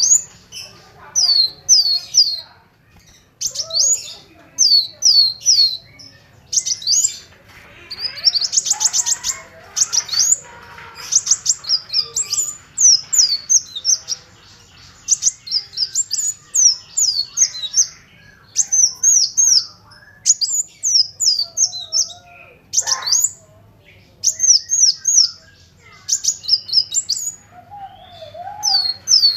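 Kolibri wulung (a sunbird) singing continuously in bursts of sharp, high, falling chirps, with a fast trill partway through.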